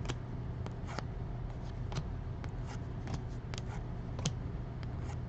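Trading cards being handled and slid against each other, a scatter of soft clicks and rustles over a low steady hum.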